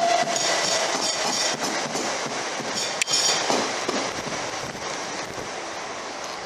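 A train passing and moving away, its wheels clattering over the rail joints, with a falling whine that fades out about half a second in; the noise dies away steadily, with one sharp click about three seconds in.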